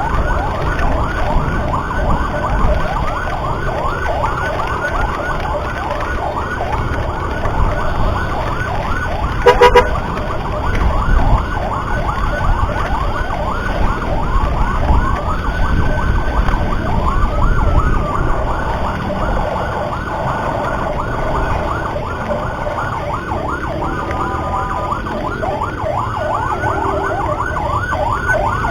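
Emergency siren in a fast yelp, its pitch sweeping rapidly up and down over and over, above a steady low rumble of wind and road noise. A short horn-like blast sounds about ten seconds in, and a steady horn-like tone sounds again about three-quarters of the way through.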